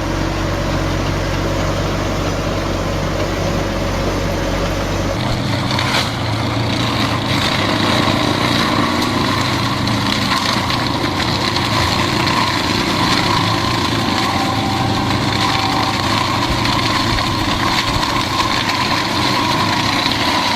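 Heavy farm machinery engines running steadily; about five seconds in the sound switches abruptly to a different machine with a higher mechanical whine.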